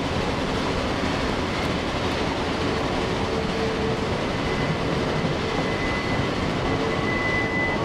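Open-sided railroad passenger cars rolling past close by on curving track, a steady rumble of steel wheels on the rails. A thin, steady high squeal joins about halfway through.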